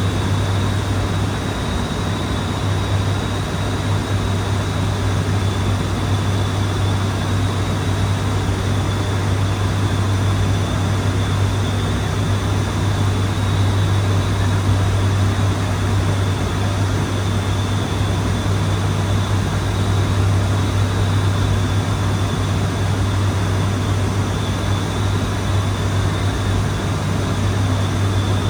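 ATR 72-600's twin turboprop engines and propellers running steadily: a strong, even low propeller hum under a constant rush of noise, with a faint steady high whine.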